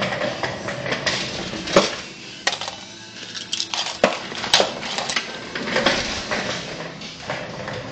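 Small toy RC helicopter's motor and rotor whirring unevenly, with several sharp knocks and clatters as it bumps into things.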